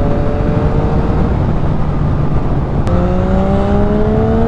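Yamaha XSR900's 890 cc inline-three engine pulling hard in second gear, its pitch rising steadily, under a heavy rush of wind noise. About three seconds in there is a click and the pitch drops slightly, then climbs again.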